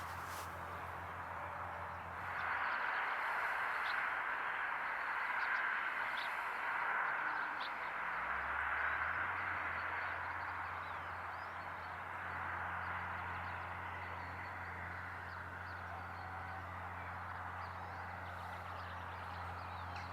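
Tractor engine running steadily at a distance in a field, under a rushing noise that swells about two seconds in and eases off past the middle; the low engine hum drops out for a few seconds and then comes back.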